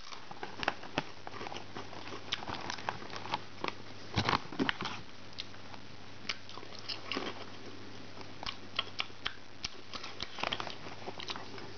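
Baked wheat cheese sticks being bitten and chewed close to the microphone: irregular crisp crunches, with a denser run of them about four seconds in.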